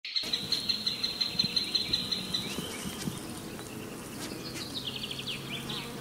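High insect chirping: a fast pulsed trill for the first two seconds or so, then a falling run of chirps about four seconds in, over a low steady hum.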